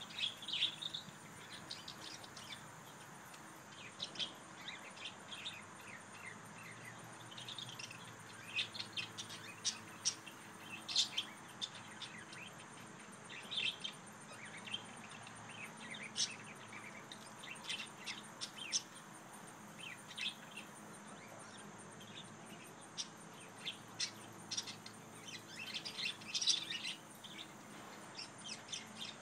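Small birds chirping throughout in short, sharp, irregular calls, with a faint steady low hum underneath.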